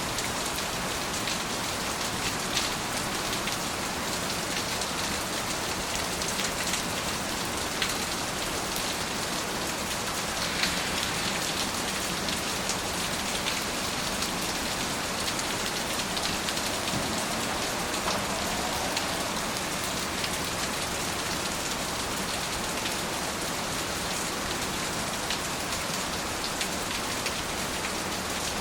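Steady rain falling, an even hiss scattered with the ticks of individual drops hitting a surface.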